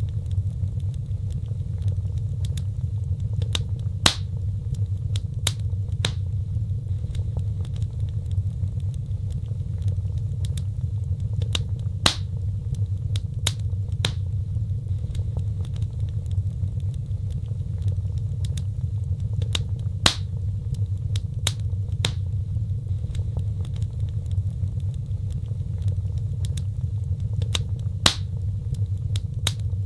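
Wood fire crackling, with sharp pops scattered over a steady low roar. A few louder pops stand out, about eight seconds apart.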